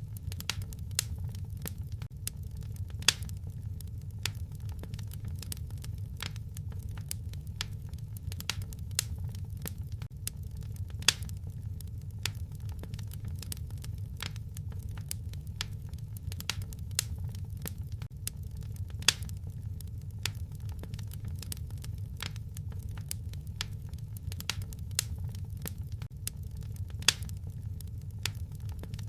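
Wood fire crackling in a fireplace: a steady low rumble of flames with frequent small snaps, and a few sharper pops about every eight seconds.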